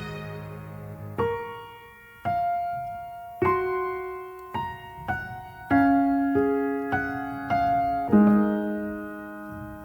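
Slow, gentle piano melody: single notes struck about once a second and left to ring and fade, over the decay of a held chord at the start.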